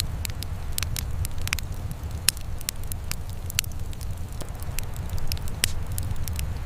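Wood fire in a fireplace crackling, with irregular sharp pops and snaps, the sharpest about two seconds in, over a steady low rumble.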